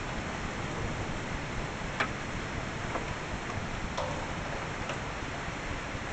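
Steady hiss of heavy rain during a thunderstorm, with a few sharp ticks about a second apart from about two seconds in.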